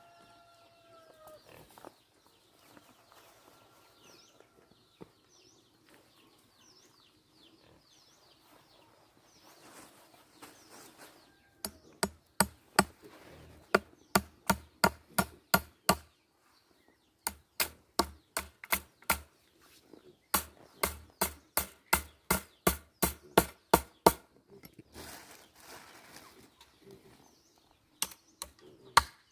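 Rapid, evenly paced chopping strokes, about two to three a second, coming in runs of several seconds with short pauses and starting about twelve seconds in. Before them, chickens cluck and small birds chirp faintly.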